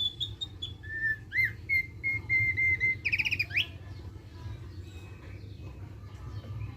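Thick-billed white-eye singing: a few clear whistled notes and a rising upsweep, then a quick run of about six repeated notes and a fast twittering trill in the 'ngeriwik' style. After about four seconds only fainter calls follow, over a steady low hum.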